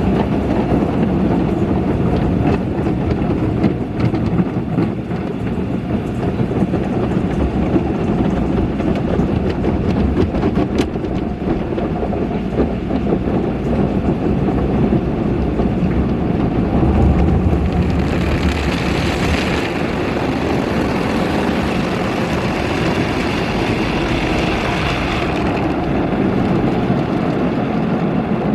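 Automatic car wash heard from inside the car: a steady mechanical rumble, with a louder hissing stretch of washing about two-thirds of the way through.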